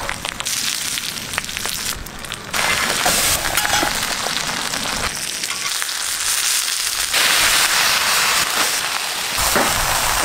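Banana-leaf-wrapped fish parcel sizzling and crackling on an oiled hot metal sheet over a wood fire, growing louder about two and a half seconds in.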